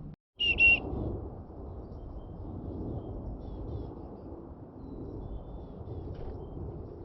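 A small bird gives one short, loud, clear whistled note close by, followed by a few faint high chirps over steady low background noise.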